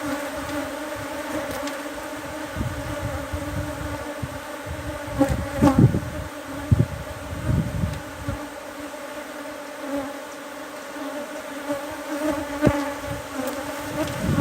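Honeybees from an opened hive buzzing in a steady hum, a colony too defensive to work bare-handed. Low thumps and rustles come and go, heaviest about five to eight seconds in.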